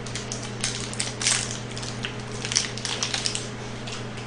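Crisp crunching of a KitKat wafer bar being chewed close to the microphone: a quick irregular series of crunches that thins out near the end.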